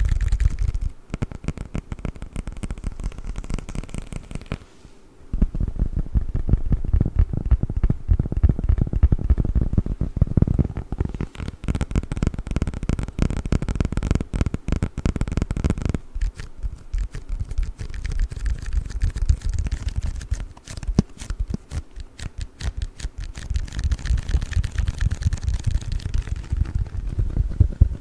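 Fast, dense tapping and scratching on a plastic package of play foam, with a short pause about five seconds in.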